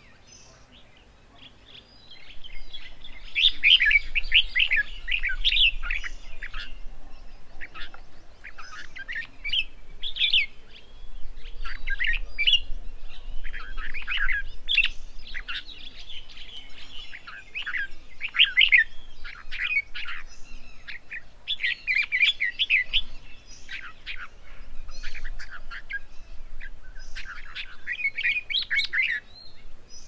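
Birds chirping and chattering in busy, overlapping bursts of short, sharp calls, starting about two seconds in.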